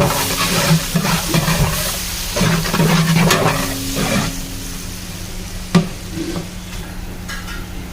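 A ladle scrapes and stirs ingredients frying in a large biryani pot, with oil sizzling. There is a single sharp knock about six seconds in, over a steady low hum.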